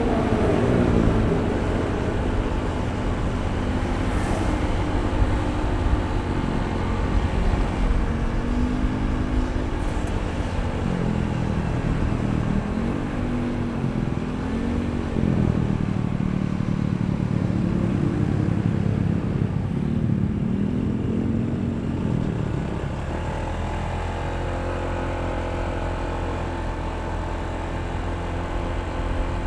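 Honda ADV160 scooter's single-cylinder engine running under way, its pitch rising and falling several times with the throttle, then holding steadier over a low rumble for the last few seconds.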